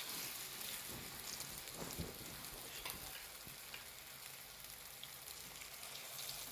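Marinated chicken pieces frying in hot oil: a steady sizzling hiss with scattered crackles. There is a soft knock about two seconds in.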